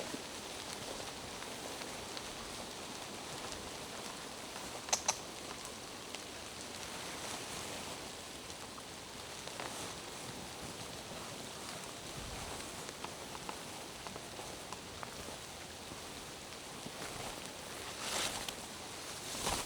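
Steady rain falling through forest: an even patter of drops, with two sharp ticks about five seconds in and a short swell of louder noise near the end.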